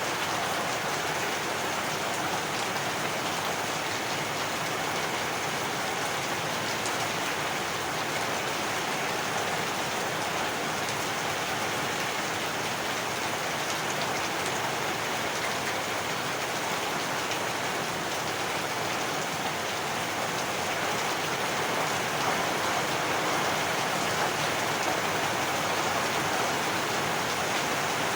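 Heavy rain falling steadily, a dense, even hiss of drops on surfaces with no thunder.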